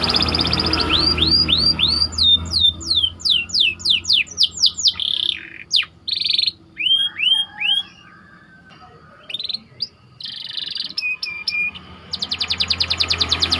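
White domestic canary singing a tight rolling song: fast trills and runs of downward-sliding whistled notes. The song breaks off for about a second and a half past the middle, then resumes with a fast trill near the end.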